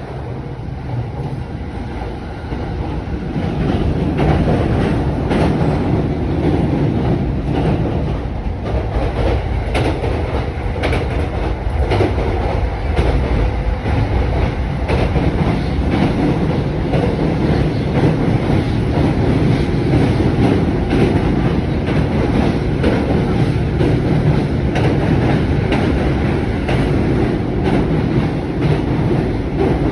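Japanese commuter train running on the rails: a steady rumble with clickety-clack from the wheels, growing louder about three seconds in.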